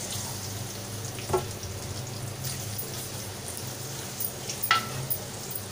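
Cut bitter gourd (karela) pieces sizzling steadily in hot oil in a steel karahi, just tipped in to fry. Two brief clinks, about a second in and near the end.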